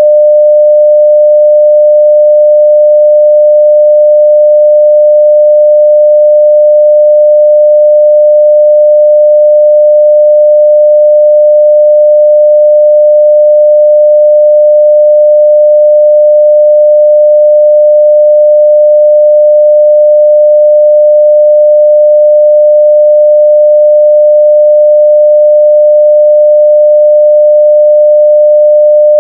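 Steady 600 Hz sine-wave test tone at full level, a single unchanging pure pitch.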